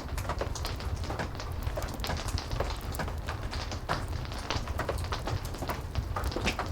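Heavy rain with a wood fire crackling: a steady low rumble under frequent, irregular pops and ticks.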